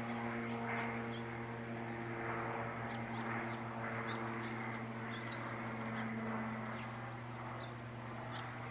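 Birds giving many short high chirps over a steady low hum with several overtones.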